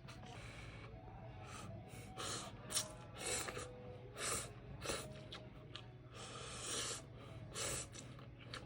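A person slurping noodles with repeated short, hissy slurps and sucked-in breaths, and one longer slurp about two-thirds of the way through.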